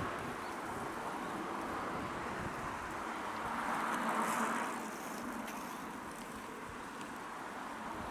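Steady outdoor background rush, swelling for a second or so about four seconds in and then easing back.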